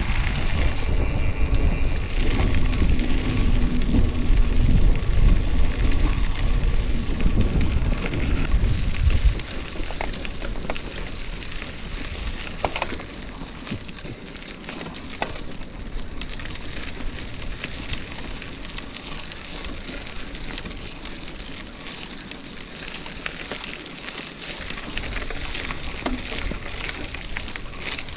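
Wind buffeting the microphone of a moving bicycle, loud for about the first nine seconds, then bicycle tyres rolling over a dirt or gravel track with many small crackles and clicks.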